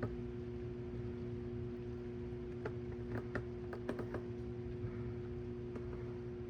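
Steady electrical-sounding hum, with a handful of light, irregular clicks or ticks clustered in the middle.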